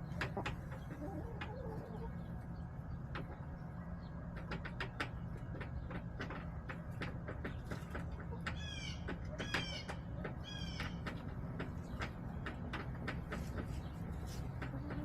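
Backyard chickens in their coop: many sharp clicks and taps from pecking and scratching, over a steady low hum. About two-thirds of the way through, a bird gives three quick runs of high, falling chirps.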